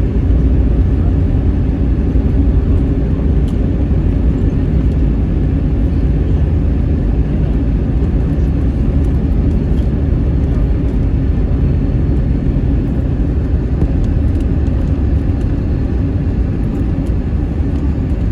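Cabin noise inside an Airbus A321 that has just landed: a steady, loud, low rumble of the engines and the airliner rolling on the ground.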